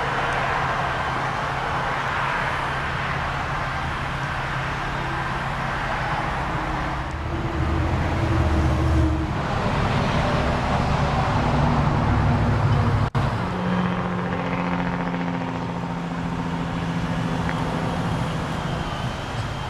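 Car engine running with a steady low hum. It grows louder through the middle, cuts out for an instant about thirteen seconds in, then settles at a slightly higher pitch.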